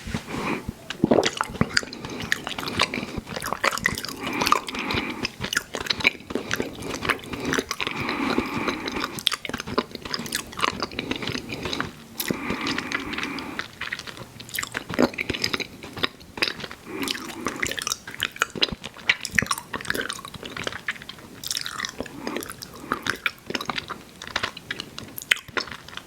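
Close-miked chewing of chewy fruit candy (Airheads Bites and Tootsie Fruit Chews), with wet smacking and sticky mouth clicks in quick, irregular succession.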